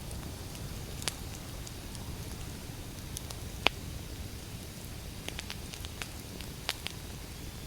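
Wood fire burning: a steady low rumble of the flames with scattered sharp crackles and pops of the burning logs, the loudest pop a little over three and a half seconds in.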